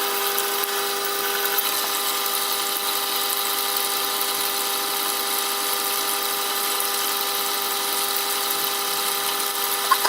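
Jet wet sharpening machine running steadily, its motor humming with several constant tones under a high grinding hiss, as a knife blade is ground on its 1000-grit water stone.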